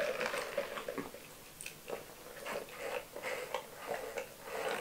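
Quiet chewing and wet mouth clicks of someone eating a mouthful of fast food, irregular and close to the microphone, with a sip through a straw from a drink cup near the end.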